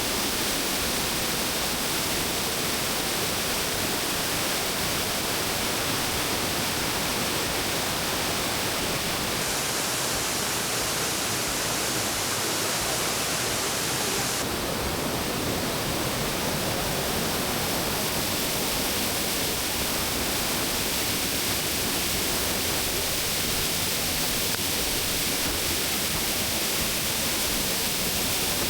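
Dry Falls, a waterfall on the Cullasaja River, heard close up: a loud, steady, even rush of falling water. The hiss grows briefly brighter for a few seconds in the middle.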